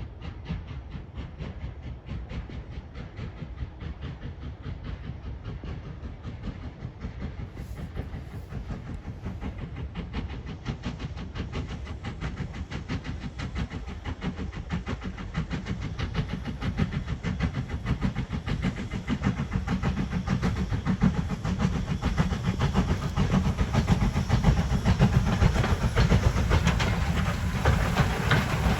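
LMS 'Jinty' 3F 0-6-0 tank engine 47298 running under steam, a steady rapid rhythm of exhaust and wheel noise growing steadily louder as it approaches.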